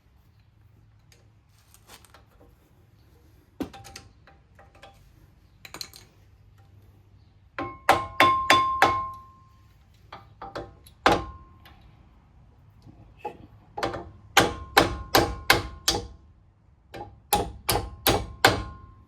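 Hammer driving a brake pad retaining pin into a Porsche 986 brake caliper: sharp metal-on-metal strikes that ring. A few light knocks come first, then quick runs of about five blows each, from about eight seconds in to near the end.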